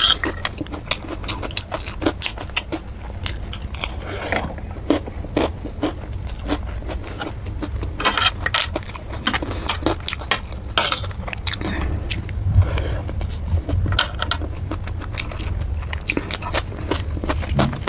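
Close-miked mouth sounds of chewing and crunching on chow mein noodles mixed with crunchy Kurkure and cucumber: irregular crackles and crunches, with a metal spoon clinking and scraping on the plate. A low steady hum runs underneath.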